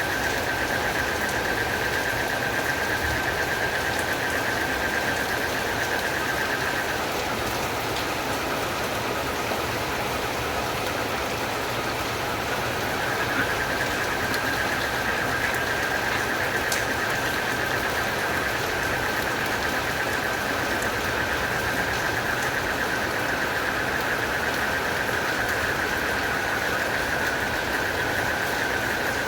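Steady heavy rain, with a high, unbroken trill from a night creature running over it; the trill drops out for about five seconds partway through, then carries on.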